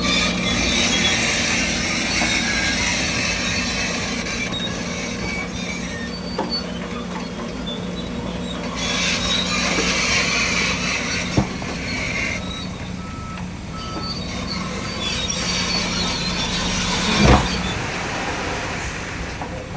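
Diesel heavy earthmoving machinery, bulldozer and dump trucks, running steadily, with a sharp metal clank about halfway through and a louder one near the end. A short run of reversing beeps sounds just after the middle.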